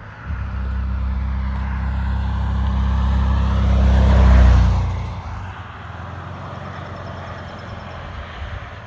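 1995 Ford F-150's 4.9-litre (300) inline-six under throttle, with the muffler deleted behind the catalytic converters, driving past. The exhaust note comes in sharply, builds to its loudest about four and a half seconds in, then fades quickly as the truck moves away.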